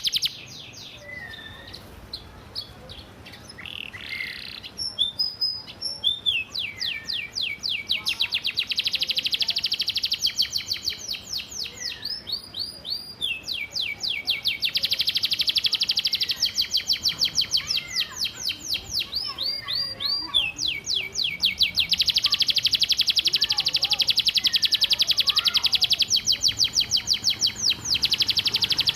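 Domestic canary singing: a few scattered chirps, then from about four seconds in long, very fast trills of repeated high notes, one run after another.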